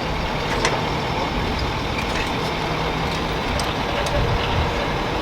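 Dually pickup truck's engine idling steadily while it is held on the brake, with a few faint clicks over it.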